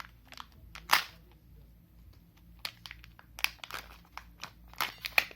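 Plastic packaging of a Kinder Joy egg being handled and opened: scattered crinkles and sharp clicks, with one loud snap about a second in and a quicker run of clicks near the end.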